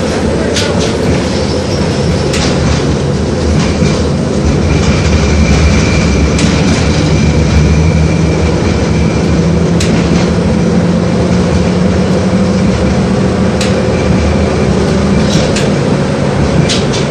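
LVS-86K tram running between stops, heard from inside the car: a steady low motor and rolling hum with scattered sharp clicks from the rails. A thin high whine holds for several seconds in the middle.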